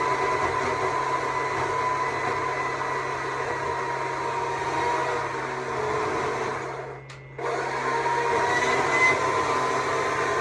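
Stihl MSA 200 C battery chainsaw running with a steady electric whine as it carves wood. About two thirds of the way through, the trigger is let go for a moment and then squeezed again.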